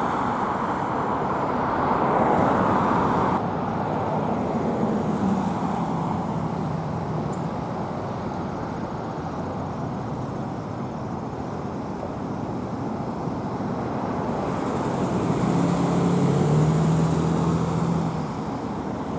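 Road traffic: a steady rush of passing vehicles, with one vehicle's engine hum rising and fading about five seconds in, and a louder one near the end.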